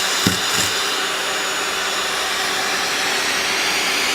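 Vacuum cleaner running steadily with an even, hissing rush of air, broken by two short knocks near the start.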